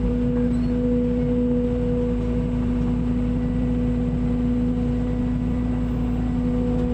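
Engine running steadily at a constant speed: an even, unchanging hum.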